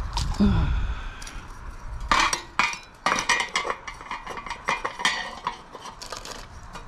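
Bird feeders being filled and handled: a run of light, irregular clinks, rattles and knocks of feeder parts, with a few short ringing clinks about halfway through.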